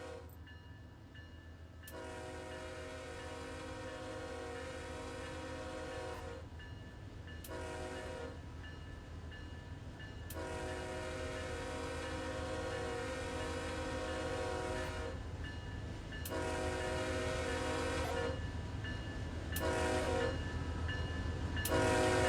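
Locomotive air horn sounding a chord in a run of long and short blasts, growing louder as the train approaches, over a steady low rumble of the train.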